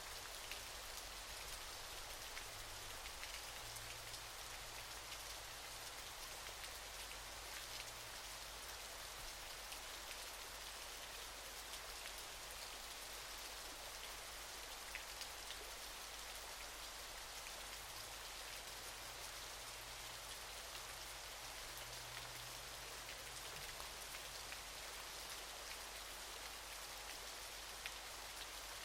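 Waterfall: a steady, even hiss of falling, splashing water, with small drip-like ticks scattered through it.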